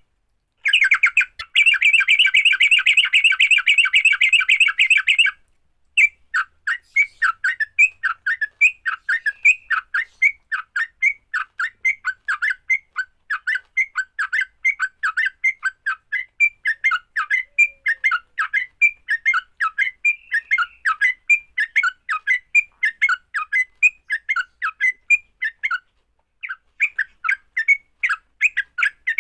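Yellow-vented bulbul (trucukan) giving its agitated fighting song. It opens with a few seconds of dense, rapid chattering, then runs into a long series of sharp chirps at about three or four a second, with a brief pause near the end.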